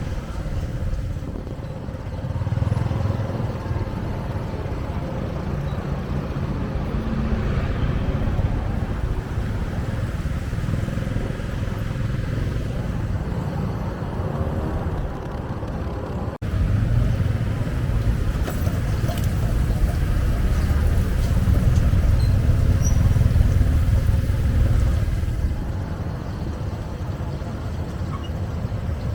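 Street traffic with motorbike engines running, a steady low rumble that rises and falls, broken by a short drop about 16 seconds in.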